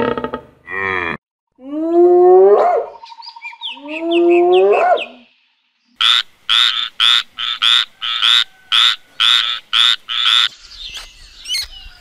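Frog croaking: a quick run of about eleven short, evenly spaced croaks, starting about six seconds in. Before it come two long, drawn-out animal calls that rise in pitch.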